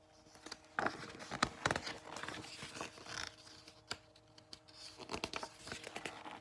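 Paper rustling and handling clicks as a picture-book page is turned, starting about a second in, over a faint steady electrical hum.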